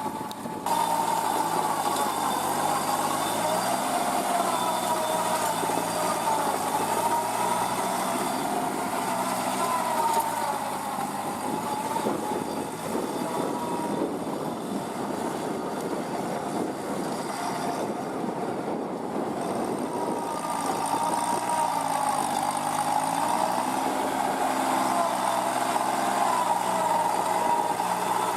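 Kubota NeoStar B2441 mini tractor's three-cylinder diesel engine running under load, its pitch rising and falling, with a wavering whine over it. The sound steps up abruptly just under a second in.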